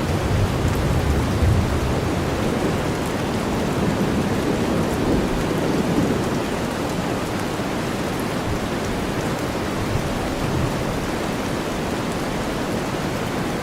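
Steady, dense rainfall blended with deep white noise, with a low rumble that swells in the first couple of seconds and again around five to six seconds in.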